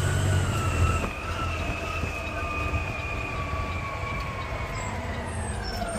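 Electric drive motor whine of a Mack LR Electric garbage truck, a steady high whine that slowly falls in pitch, over a low hum that drops away about a second in.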